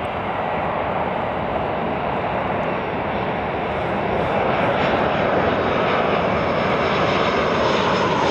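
Boeing C-40C (737-700) jet on approach to land, its CFM56-7B turbofans making a steady rushing noise that grows gradually louder as it nears.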